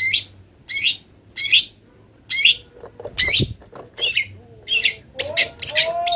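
Long-tailed shrike (cendet) calling in a series of short, harsh, high notes, about one every three-quarters of a second at first and coming faster near the end. Fainter, lower whistled glides join in over the last second or so.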